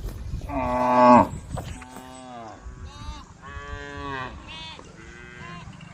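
Cows mooing: a loud low call about half a second in, followed by several more calls one after another, some of them higher-pitched, from more than one animal.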